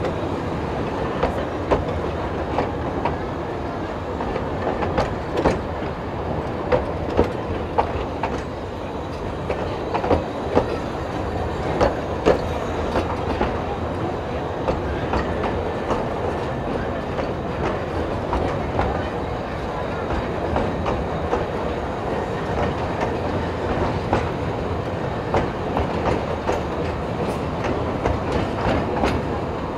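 Open wooden passenger cars of a narrow-gauge forest railway rolling slowly past, a steady rumble from the wheels on the rails with frequent irregular clicks and knocks.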